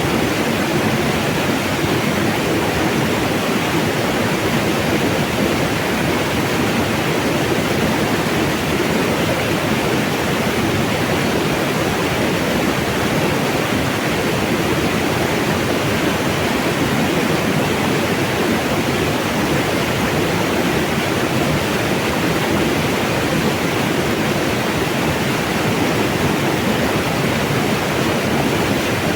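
Mountain water rushing over rocks as a steady, unbroken wash of noise, with no change in level.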